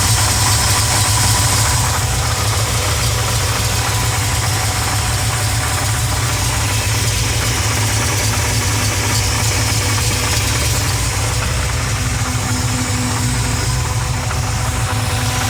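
Pontiac 400 V8 idling steadily with a knocking noise whose cause is still being diagnosed.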